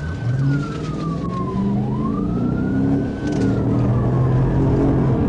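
Police siren in wail mode, rising and falling slowly about twice, over a vehicle engine accelerating with its pitch climbing in steps.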